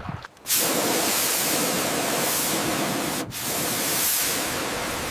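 Steady, loud spraying hiss that starts about half a second in, breaks off briefly a little past three seconds, then carries on.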